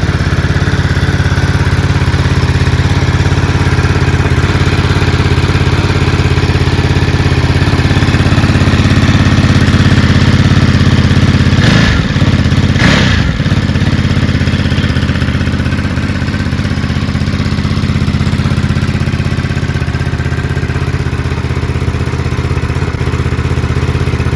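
Ducati Monster 937's 937cc Testastretta V-twin running steadily at idle through a Mivv titanium slip-on exhaust, with two brief sharp sounds about halfway through.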